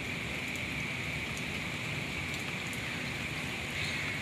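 Steady heavy rain falling on pavement and standing water, with a few scattered drip ticks.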